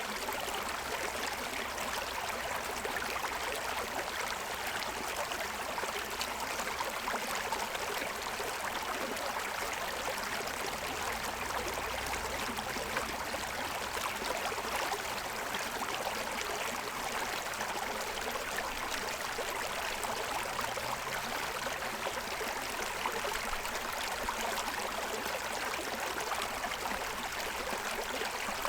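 A forest stream running steadily over the stones of its bed, a constant rushing and babbling of water.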